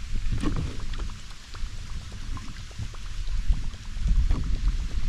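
Water splashing and dripping around a fishing kayak, with many small ticks over a fluctuating low rumble.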